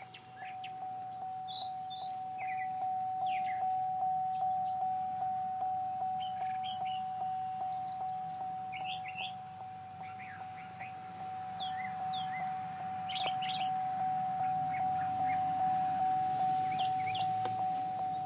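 Birds chirping and calling intermittently over a steady electronic tone that pulses about three times a second.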